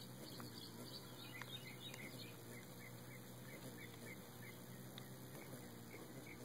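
Faint, short high bird chirps, repeated about two to three times a second, beginning about a second and a half in, over a low steady hum.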